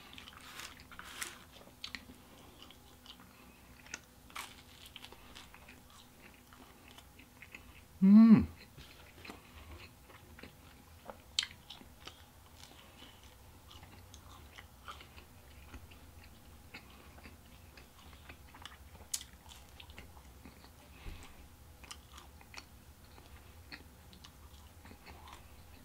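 A person chewing and biting into pizza crust, with small crunches scattered throughout. A brief voiced sound about eight seconds in is the loudest moment.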